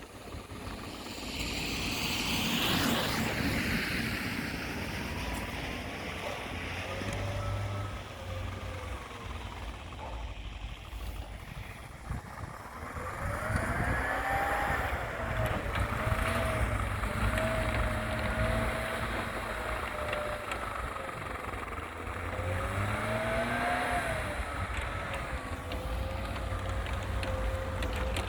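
All-terrain vehicle's engine running, its pitch rising and falling as it is revved up and eased off several times over a steady low rumble. There is a brief rushing noise about two to three seconds in.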